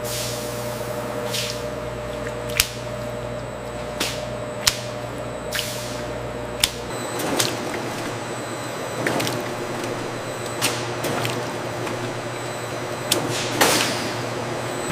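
Steady hum of food-processing machinery with irregular sharp clicks and knocks about once a second and a few short swishes.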